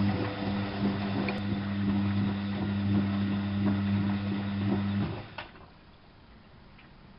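Alaska WA8200 E washing machine running with a steady low hum and irregular gurgling and clicking of water, which cuts off abruptly about five seconds in.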